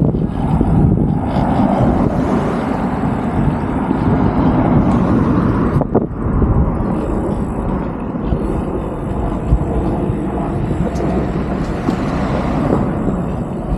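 Steady outdoor rumble of road traffic and wind on the microphone, with a short click and dip about six seconds in.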